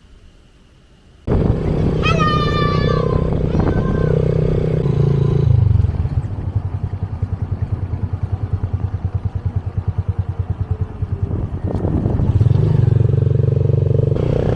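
Motorbike engine running under way, cutting in suddenly about a second in. Its note eases into a rapid low pulsing in the middle and picks up again near the end. A brief falling tone sounds about two seconds in.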